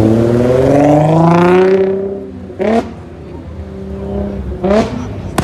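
Car engine revved up and held climbing for about two seconds, then let back down to idle, followed by two quick throttle blips.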